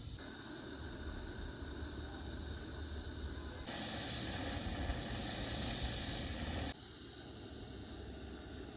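Steady hiss of food cooking over heat, in three sections that change abruptly about a third of the way in and again about three-quarters of the way in; the middle section is the loudest.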